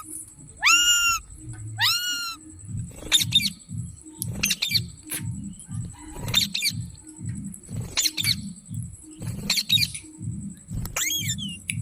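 Pet green parrot calling: two long rising-and-falling calls, then a run of short sharp squawks and chirps. A low, evenly pulsing beat, like background music, runs underneath from about three seconds in.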